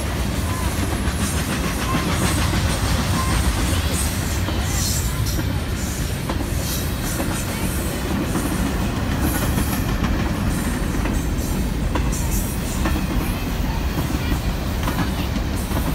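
Long CSX container train rolling steadily past, its freight cars giving a continuous low rumble with wheels clicking over the rail joints.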